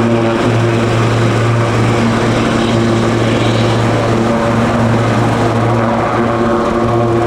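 Helicopter running steadily on the ground: a loud, even drone with a strong low hum and overtones that hold a steady pitch.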